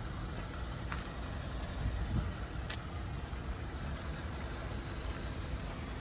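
2018 Hyundai Accent's 1.4-litre G4LC four-cylinder engine idling steadily, a low even rumble.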